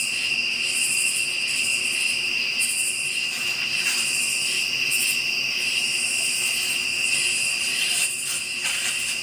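Night insect chorus: a steady high-pitched trill of crickets, with a second, higher call pulsing about once a second.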